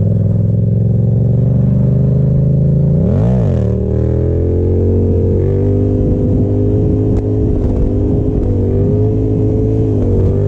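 Yamaha FZ-07's 689 cc parallel-twin engine running. About three seconds in it revs up sharply and drops straight back; otherwise it holds a fairly steady pitch with small rises and dips.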